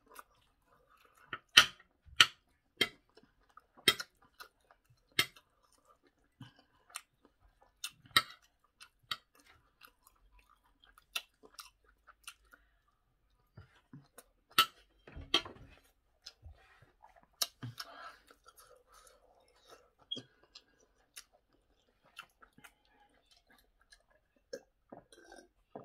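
Close-miked chewing of rice, chicken and vegetables, with scattered sharp wet mouth clicks and smacks, a few of them loud.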